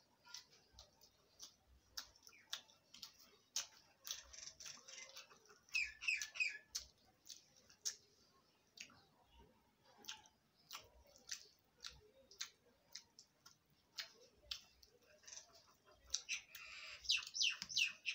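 Chewing and short mouth clicks of someone eating by hand. A small bird chirps in quick bursts about six seconds in and again near the end.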